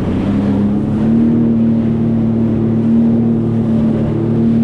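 Sea-Doo FishPro Sport 170 personal watercraft running under way at steady speed through waves, engine pitch rising slightly about a second in and then holding, over rushing water noise.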